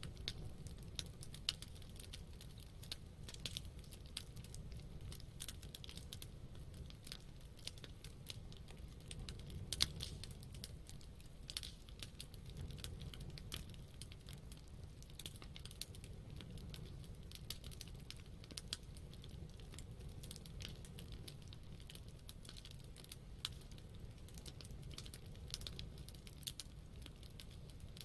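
Wood campfire crackling, with irregular sharp pops and snaps, a few louder than the rest, over a low steady rumble.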